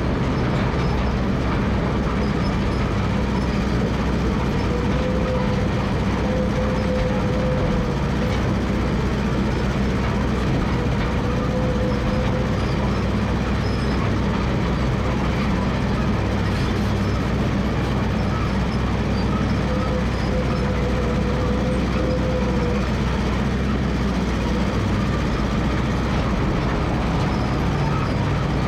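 Massey Ferguson MF 300 crawler dozer running steadily while working, with a thin higher tone rising over the engine three times, for a few seconds each.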